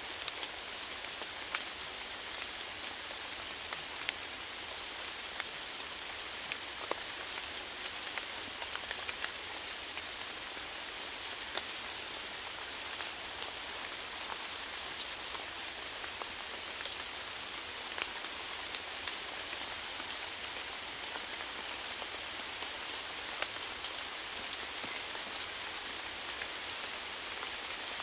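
Steady rainfall: an even hiss of rain with scattered sharper ticks of individual drops hitting a surface.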